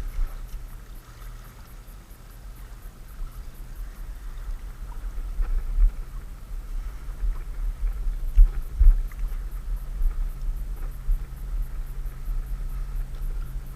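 Wind rumbling and buffeting on the microphone in uneven gusts, over a faint steady low hum that grows a little louder in the second half.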